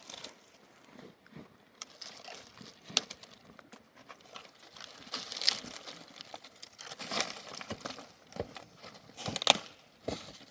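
Irregular rustling and crinkling with scattered sharp clicks and knocks, the loudest about three, five and a half, seven and nine and a half seconds in.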